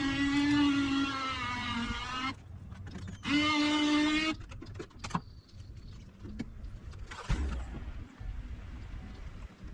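Small electric motor whining at a steady pitch, then cutting off after about two seconds; it runs again for about a second and stops. A few light knocks and clicks follow.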